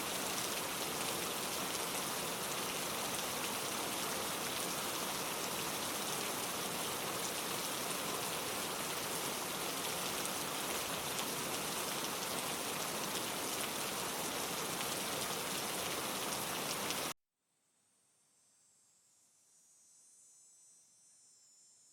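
Steady rain falling on surfaces that cuts off abruptly about 17 seconds in. Faint high-pitched chirring of crickets or other insects then fades in.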